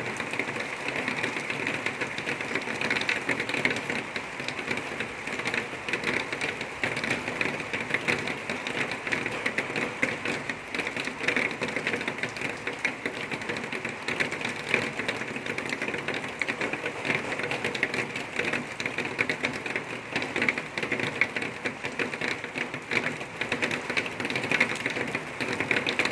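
Well-drilling rig running steadily as it bores down between pipe additions, a continuous fast mechanical rattle.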